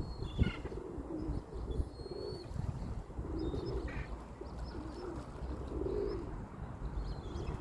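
Thin, short, high peeps from coot chicks over a run of low, soft cooing notes that come about once a second, with low rumble from wind on the microphone.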